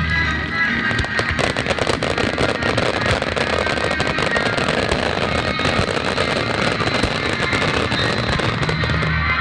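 Fireworks bursting in a dense, rapid crackle, over music played with the display.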